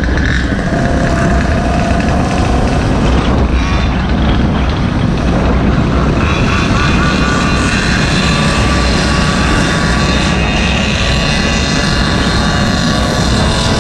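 A small gas engine of a Goped or mini bike running at speed, with heavy wind rumble on the microphone; a higher whine joins about halfway in.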